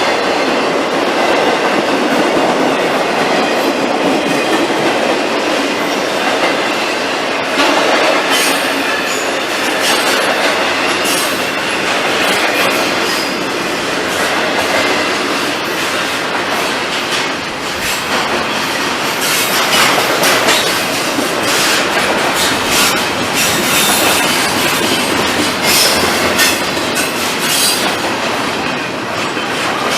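Train cars rolling past on the rails in a continuous clattering rumble, with clickety-clack from the wheels and short bursts of wheel squeal that become more frequent in the second half.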